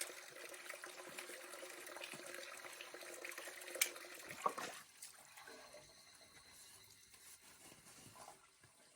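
Running water splashing, with a steady tone under it at first, then two sharp clinks about four seconds in, after which it eases to a lighter trickle.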